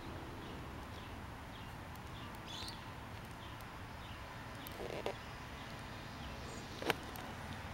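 Faint short chirps of small birds recurring over a steady outdoor background hum, with two sharp knocks, one about five seconds in and a louder one near seven seconds.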